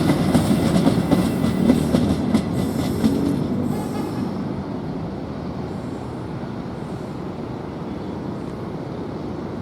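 Passenger train running over a railway bridge, its wheels clattering over the rail joints. The clatter fades about four seconds in, leaving a lower, steadier rumble as the train moves away.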